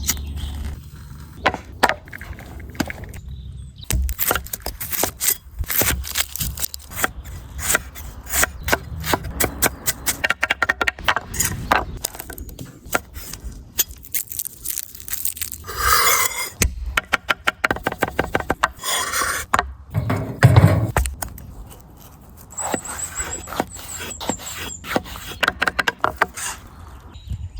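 Outdoor cooking and food-preparation sounds in quick succession: many short knocks, cracks and scrapes, some in fast even runs, with louder rustling stretches about sixteen and twenty seconds in.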